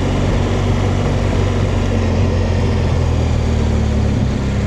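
BMW R1200GS flat-twin boxer engine running steadily at low speed as the motorcycle slows to pull in, with wind and road noise on the rider's microphone.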